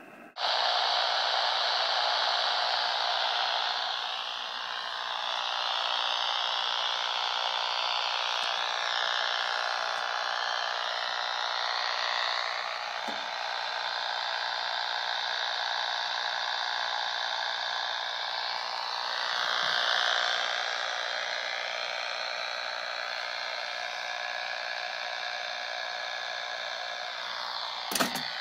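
Amateur radio receiver on the 80-metre band putting out a loud, steady rush of white noise with slowly wavering tones in it: the interference that the owner traced to compact fluorescent bulbs. It starts abruptly, and a sharp click comes near the end.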